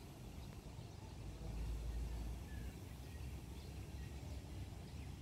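Outdoor hillside ambience: a low rumble that swells about a second and a half in, with a few faint bird chirps.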